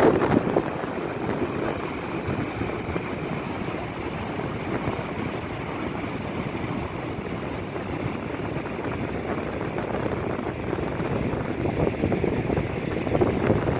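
Wind buffeting a cell phone's microphone in gusts over the wash of ocean surf, a little stronger at the start and again near the end.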